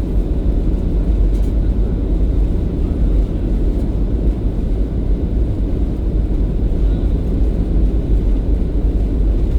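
Airliner cabin noise: a steady low rumble of engines and airflow heard from inside the passenger cabin, unchanging throughout.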